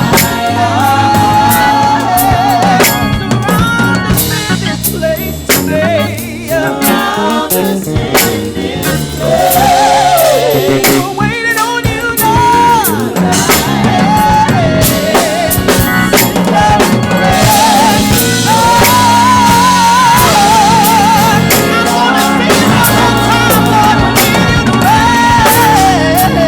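Live gospel praise band playing: a drum kit with snare, rimshot and bass drum hits driving the groove under bass and chords, with a wavering melodic lead line over it.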